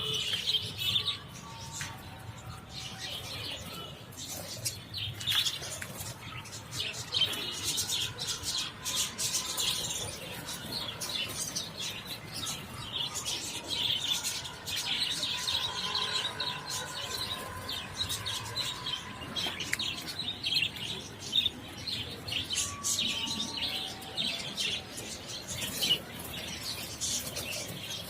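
A flock of caged budgerigars chirping and chattering continuously, many birds calling at once.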